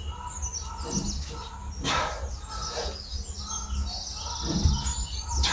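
Small birds chirping over and over, with a steady low wind rumble on the microphone and a few short sharp knocks.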